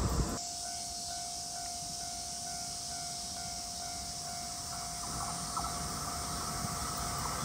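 A train approaching along the railway, still out of sight: a steady ringing tone with a faint repeating higher note over a quiet background, and the sound of the train growing louder in the last couple of seconds. A gust of wind on the microphone dies away at the very start.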